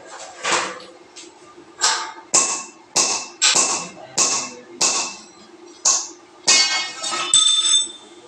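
Repeated sharp metallic strikes, about ten of them at roughly two a second, each ringing briefly; the last one, near the end, rings longest.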